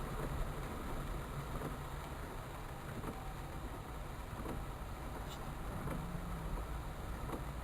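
Steady low rumble with an even hiss: street traffic in heavy rain.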